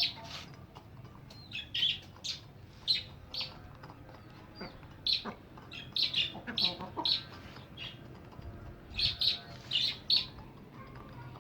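Parrots calling: many short, sharp, high calls in clusters, with brief lulls between them.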